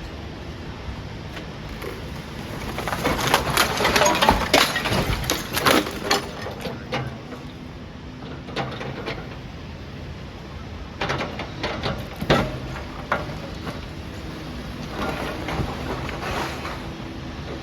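Brick walling being pulled down by a demolition excavator: bricks and rubble clattering and breaking in three bouts, the loudest about three to five seconds in, over steady background noise.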